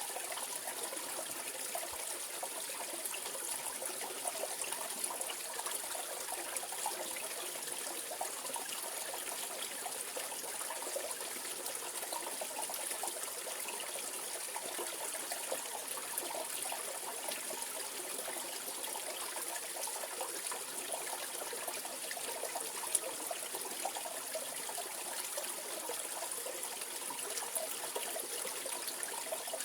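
Mountain stream flowing over rocks: a steady babble and trickle of water without change.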